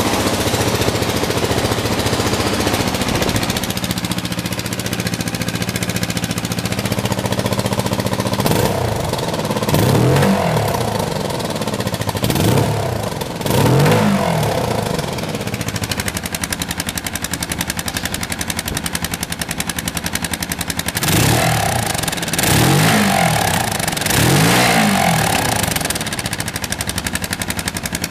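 2015 Kawasaki Vulcan S 650's parallel-twin engine idling steadily, then revved briefly three times about a third of the way in and three more times near the end, settling back to idle after each blip.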